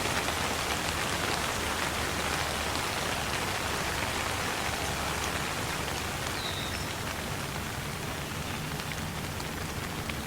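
Steady rain falling, a dense patter of drops, easing slightly in level toward the end.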